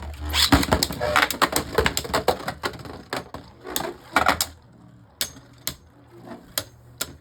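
Two Beyblade Burst spinning tops clashing in a plastic stadium: a dense rattle of rapid hard clicks for the first four seconds or so, thinning to occasional single clicks.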